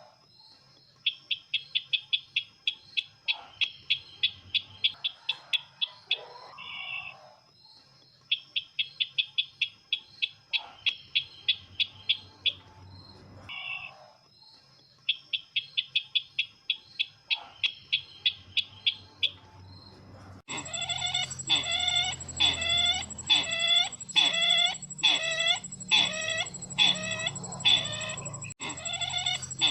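Sisintar bird calls played as a lure recording: three bursts of rapid chattering notes, each about five seconds long with pauses between them. About two-thirds of the way through it switches abruptly to slower, louder repeated calls, about one and a half a second.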